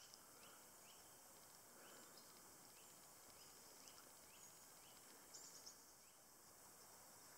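Faint woodland ambience with a small bird repeating a short rising call about every half second for the first few seconds. A few brief high ticks come about five and a half seconds in.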